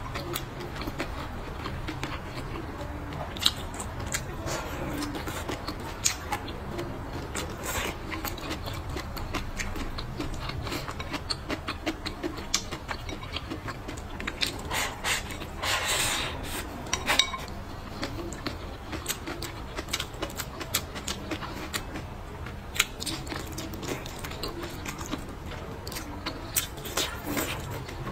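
Close-up eating sounds from pork trotters and noodles: irregular sharp clicks and smacks of chewing, with a longer louder stretch about halfway through. A low steady hum runs underneath.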